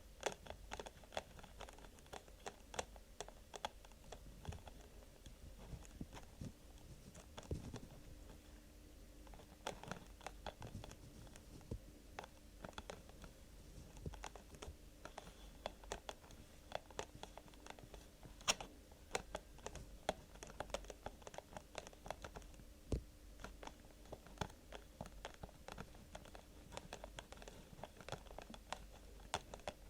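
Close-miked ASMR tapping and scratching on small objects: an irregular, quick run of light clicks and taps with some scraping.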